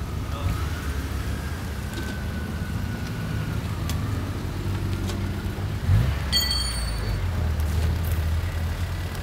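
American show car's engine rumbling at low revs as it drives off, with a sharp thump about six seconds in followed by a brief high-pitched tone.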